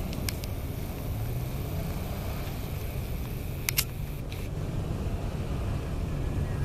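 Toyota FJ Cruiser's 4.0 L V6 engine running with low, slowly rising and falling revs, with a couple of sharp clicks, the loudest near four seconds in.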